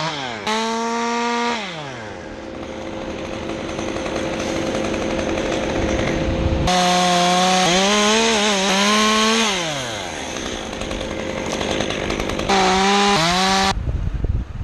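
Two-stroke chainsaw revving to full throttle and cutting, its pitch sagging under load, dropping back in between, and revving again. It shuts off just before the end.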